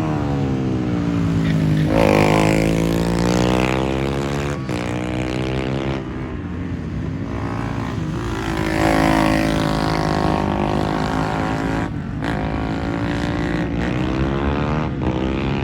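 Several small racing motorbikes' engines revving hard at a circuit, pitch climbing and falling as they accelerate, brake into corners and pass, with a few sudden breaks where the throttle is shut or a gear is changed.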